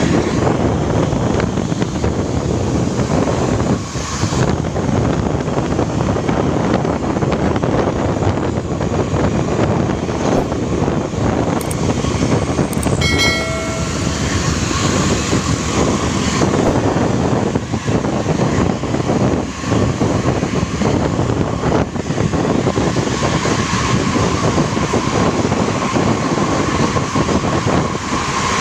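Intercity coach engine running hard under load at speed, a continuous loud rumble with road and wind noise. A short horn sounds about halfway through, and a steady whine rises out of the engine noise in the last few seconds.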